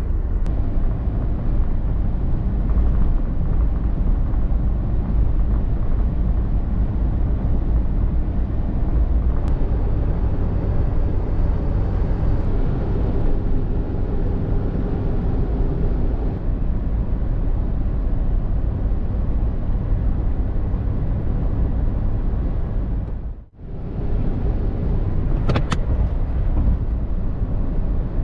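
Steady low rumble of a moving vehicle, cut off for a moment about 23 seconds in.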